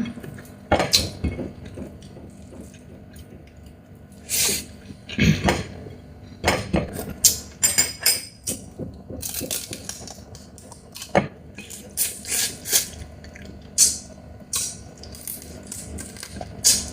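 Close-up eating sounds of a Chinese mitten crab: irregular cracks, crunches and clicks of shell being broken and chewed, some in quick clusters.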